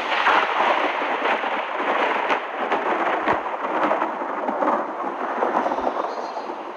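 A long roll of thunder in a thunderstorm, with rain. It rises sharply at the start and keeps rumbling unevenly throughout.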